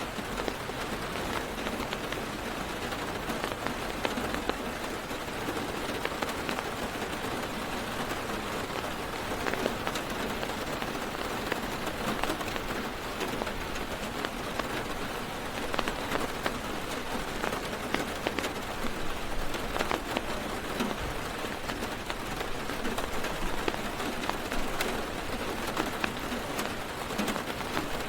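Heavy rain falling on a car's roof and windows, heard from inside the car: a steady hiss with many sharp taps of single drops.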